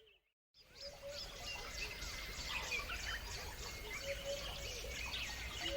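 Chorus of many songbirds chirping and twittering, with lower calls repeating underneath. The sound cuts out completely just after the start and fades back in half a second later.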